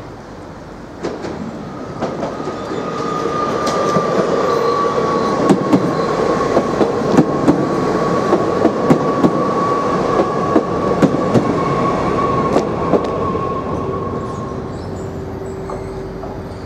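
A TER regional multiple-unit train passing over a level crossing. It builds up, passes with a rapid series of sharp wheel clacks over the rail joints, then fades away, with a steady high whine running through the pass.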